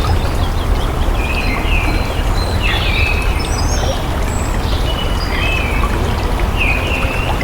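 Water flowing steadily, like a stream, with birds chirping over it in short, curving calls every second or so.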